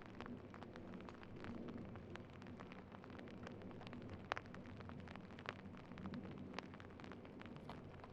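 Faint irregular crackling ticks, scattered and uneven in strength, over a steady hiss.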